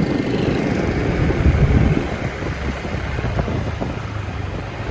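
Riding noise from a motorbike in traffic: wind on the microphone over a steady drone of engine and road noise.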